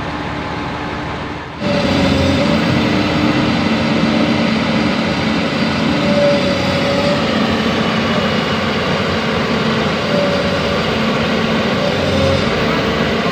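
Heavy diesel engine of earthmoving machinery running steadily, its pitch rising and falling a little as it works under load. About a second and a half in, the sound changes abruptly and gets louder.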